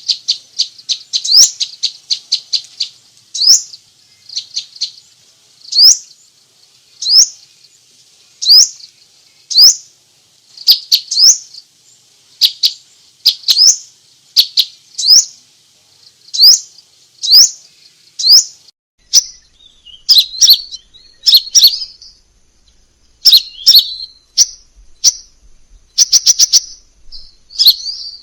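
Crimson sunbird calling: sharp, high chirps, first in a quick run, then one about every second. In the latter part they give way to jumbled twittering phrases and fast trills.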